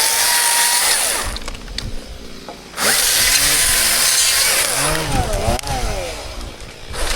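Chainsaw cutting wood, the throttle easing off about a second in, the saw revving back up near three seconds, then dropping again later before picking up at the end.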